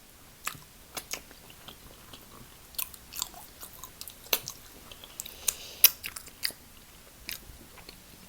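Close-miked chewing and biting of a person eating a stuffed clam: irregular wet clicks and smacks, the sharpest about four and six seconds in.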